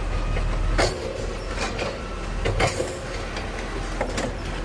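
Garbage truck's diesel engine running at a low, steady rumble, with repeated clanks and rattles from the truck and a brief high hiss near the middle.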